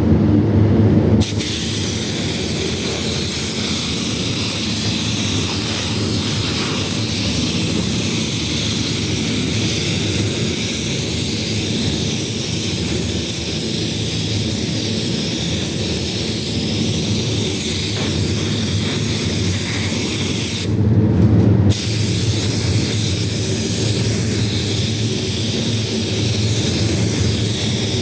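Air-fed paint spray gun hissing steadily as paint is sprayed, over a low steady hum. The spraying stops briefly twice, at the very start and about three-quarters of the way through, when the trigger is let off.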